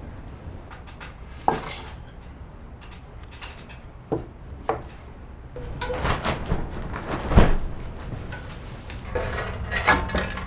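Irregular clanks and knocks of hard objects, most likely metal pots or utensils, being handled, over a low steady rumble. The clattering is sparse at first and busier in the second half.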